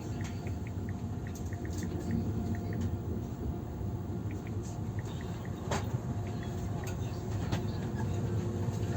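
Steady low rumble of an AVE high-speed train under way, heard inside the carriage, with a faint steady hum and scattered light ticks and clicks.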